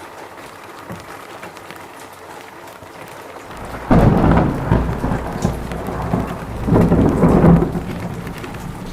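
Steady rain falling, then about four seconds in a thunderclap breaks suddenly and rolls on as a loud low rumble. It swells again near seven seconds and then fades.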